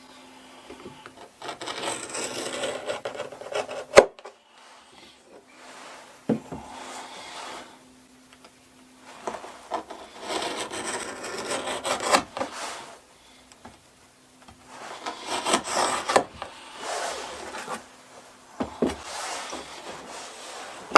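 Leather being cut to size: rasping cutting strokes in four spells of one to three seconds each, with a few sharp knocks between them. The loudest knock comes about four seconds in.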